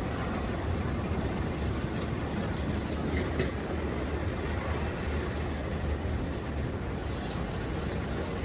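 Steady low rumble of a pedal rail bike's steel wheels rolling along the rails, with a brief click about three seconds in.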